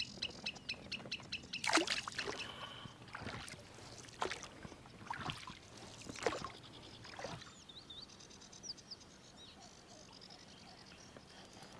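A few separate short splashes of water, then a small bird chirping a few times about seven seconds in.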